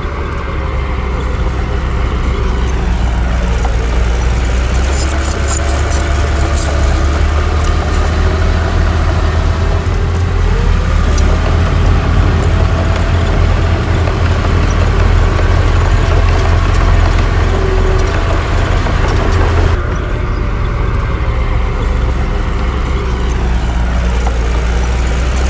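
Diesel engine of heavy earthmoving machinery running, a deep steady rumble whose pitch rises and falls as the load changes, with scattered sharp clicks.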